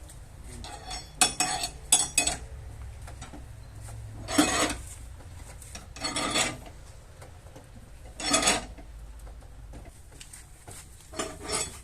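Metal tools working a car's steel body panel: a few sharp metallic clinks, then several short scraping strokes a couple of seconds apart.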